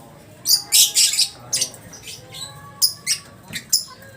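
Lovebird chattering: a string of short, sharp, high calls, about eight in four seconds, with the densest run about a second in.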